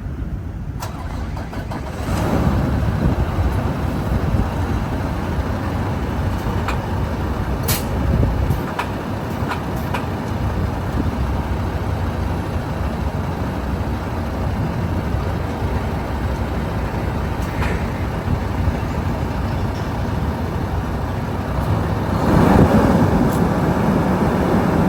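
International ProStar semi truck driving, its diesel engine running with steady rumble and road noise. The rumble gets louder about two seconds in, and again near the end.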